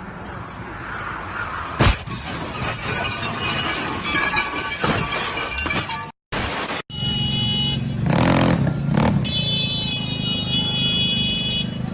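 Road traffic heard from a car, with one sharp crash-like impact about two seconds in. After an abrupt cut, a steady car-horn-like tone sounds for several seconds over engine noise.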